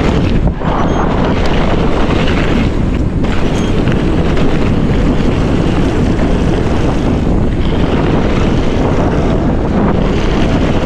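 Loud, steady wind noise buffeting the microphone as a mountain bike descends a steep hill at speed, with the rumble of the ride mixed in.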